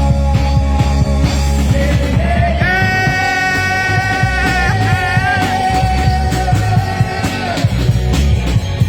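Live rock band playing a bluesy rock song, with a steady low end and a beat. A long held note starts about two and a half seconds in and lasts about five seconds before it drops away.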